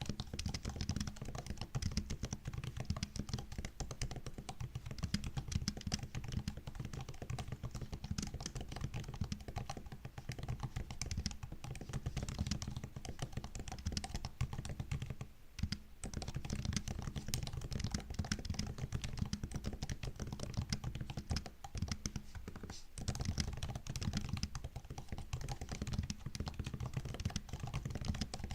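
Typing on a MacBook laptop keyboard: a steady run of key clicks and taps, with a brief pause a little past halfway and another a few seconds later.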